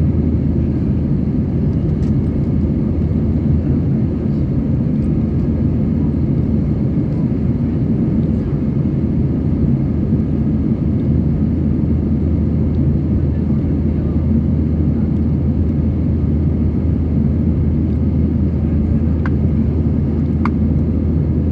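Airbus A320 heard from inside the cabin in flight: a steady, low drone of jet engines and airflow during the climb after takeoff.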